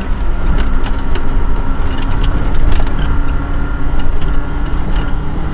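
Volvo 244 rally car's engine running under load, heard from inside the cabin with a heavy low rumble, while sharp clicks and knocks come and go throughout.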